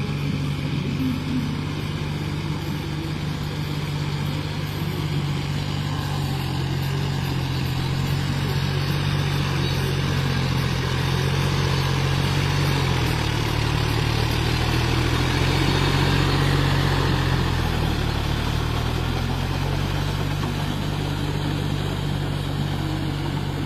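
Tractor diesel engine running steadily while working in heavy mud. Its note sags lower for several seconds around the middle, then picks back up.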